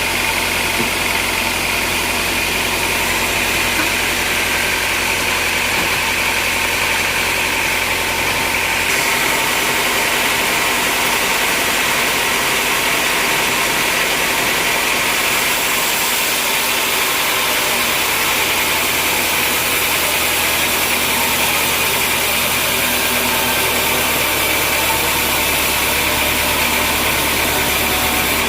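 Sawmill machinery running steadily with a continuous mechanical din. A low hum drops away about nine seconds in and comes back later.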